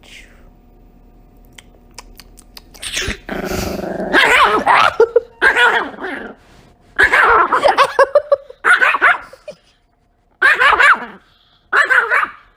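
A dog growling and barking in a run of short, loud bursts that start about three seconds in, reacting to its owner pretending to eat it.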